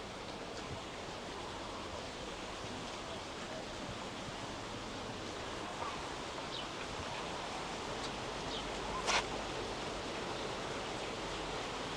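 Steady rush of flowing water from a stream or falls, with a single sharp click about nine seconds in.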